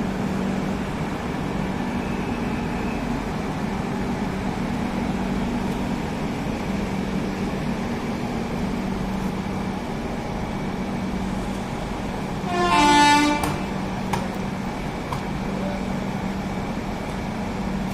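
Steady mechanical hum with a constant low tone, broken about thirteen seconds in by one short blast of an Indian Railways train horn, the loudest sound here.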